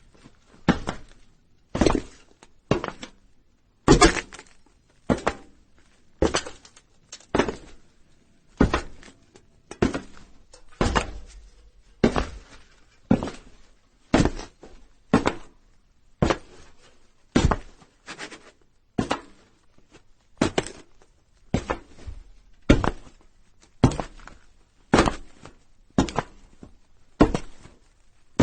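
Footsteps of a person walking on a roof: a steady series of thuds, about one a second.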